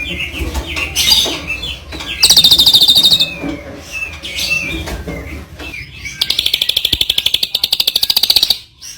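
A songbird singing: short chirps, then a loud, very rapid trill about two seconds in lasting about a second, and a longer fast trill from about six seconds in lasting over two seconds. This is the rapid full-volume delivery that bird-contest keepers call 'nembak', the bird firing off its song.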